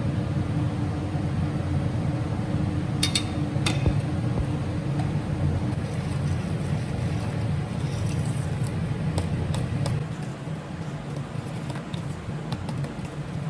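A steady low mechanical hum with a faint steady tone in it, two sharp clicks about three seconds in, and a slight drop in level near the end.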